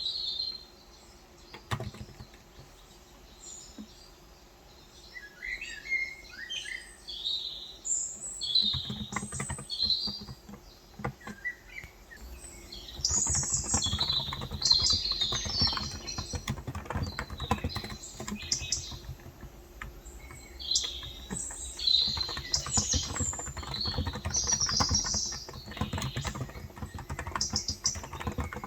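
Typing on a Cox Endeavor electro-capacitive (non-contact) 35 g tenkeyless keyboard: a few scattered keystrokes at first, then steady fast typing from about halfway through. Small birds chirp throughout.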